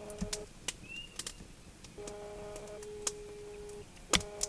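Campfire crackling with sharp, irregular pops, over a low droning tone that comes and goes.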